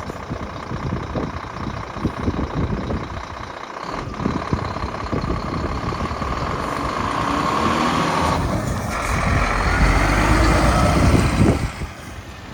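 A 2012 Scania R440's 13-litre straight-six diesel running. It grows louder and deeper through the middle, is loudest just before the end, and then drops off sharply.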